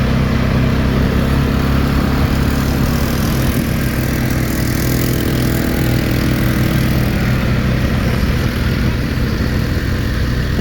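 Quad bike engine running steadily while it is ridden along, its low hum holding fairly even throughout.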